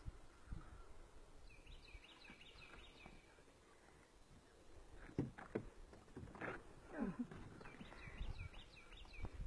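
A songbird singing a quick run of repeated falling notes, once about a second and a half in and again near the end. In between come a few louder knocks and scuffs on the wooden dock boards.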